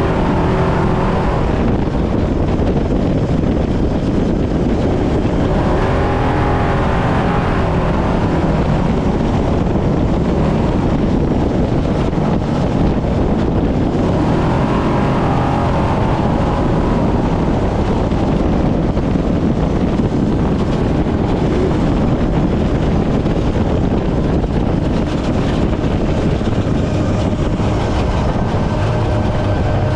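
Brenthel Class 6100 desert race truck driven hard off-road: the engine runs loud under load and rises in pitch as it revs up, twice, around six and fifteen seconds in. Wind and rough-ground noise run under it.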